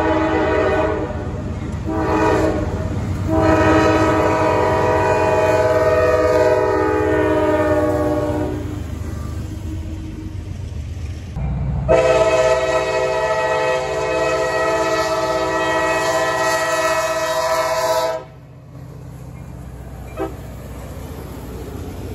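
Diesel locomotive's multi-chime air horn blowing a chord, with engine rumble underneath. It breaks briefly twice in the first few seconds, holds a long blast, stops, then sounds a second long blast of about six seconds.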